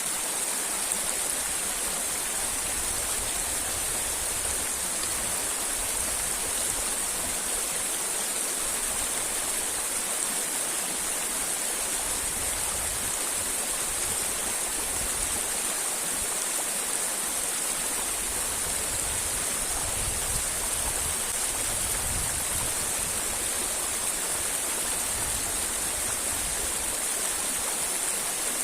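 Steady rush of a river and its waterfalls: an even hiss of flowing water with no breaks, and a faint low rumble that comes and goes.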